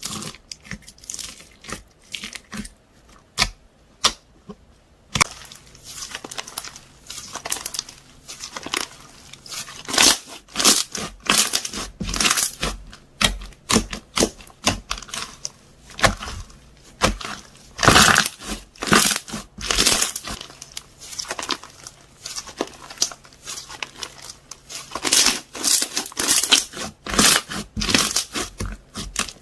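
Foam-ball slime (floam) being worked by hand: dense, sharp crackling pops from the foam beads and trapped air bubbles, thinning out briefly a few seconds in before turning busy again.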